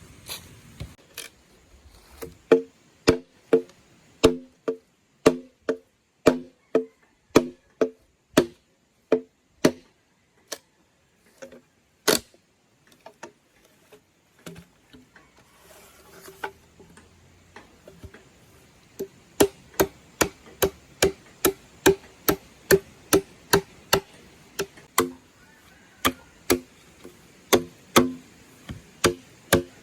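Repeated sharp chopping or knocking blows, about two a second, each with a short hollow ring. They thin out midway and then resume at a steady pace.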